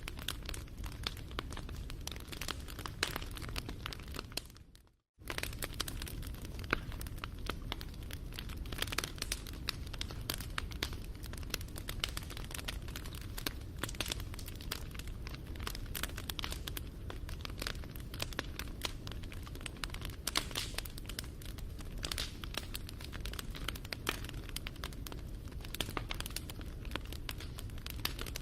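Wood fire crackling and popping: dense irregular snaps over a steady low rumble. About four seconds in it fades to silence and cuts back in half a second later.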